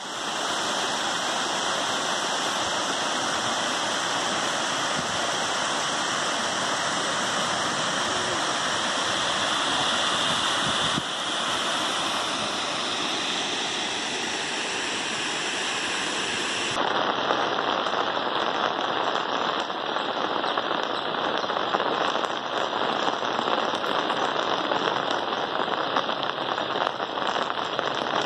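Heavy rain falling steadily, a dense even hiss; a little past halfway it changes to a crisper patter of many separate drop hits.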